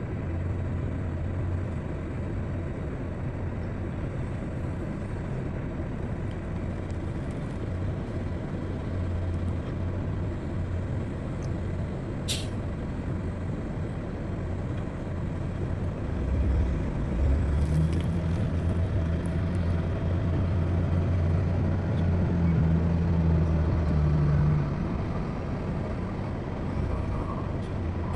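Heavy diesel construction machinery running at a steady low rumble. The engine works harder for about eight seconds in the second half, as if under load. A short sharp hiss comes about twelve seconds in.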